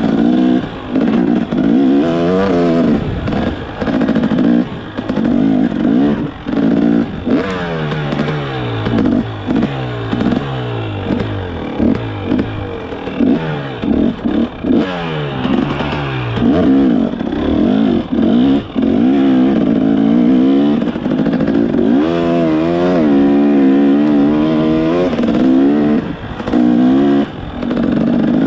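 Dirt bike engine being ridden hard, its pitch rising and falling again and again as the throttle is opened and closed through the gears, with brief drops in sound between revs.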